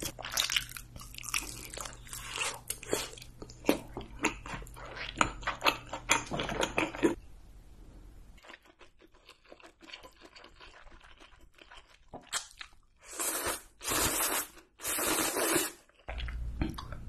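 Close-miked eating sounds: chewing and biting with many crisp clicks, quieter for a few seconds in the middle, then three louder drawn-out sounds of about a second each near the end.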